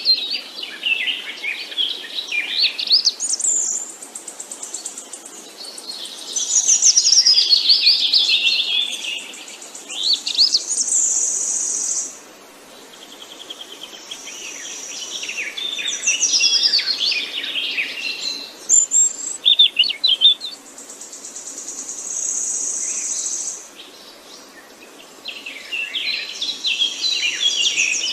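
Songbirds singing, with bursts of quick, varied chirping phrases a few seconds long and short pauses between them. A high, steady buzzing trill comes in several times for a second or two.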